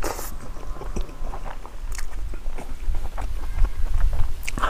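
Close-miked chewing and lip-smacking of a man eating pig trotters and rice by hand: a run of small, irregular wet clicks and mouth noises.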